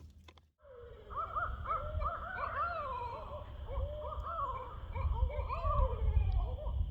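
A chorus of wild canids, most likely coyotes, yipping and whining: many short, rising-and-falling yips overlap and come in quick succession. It starts about half a second in, over a steady low rumble.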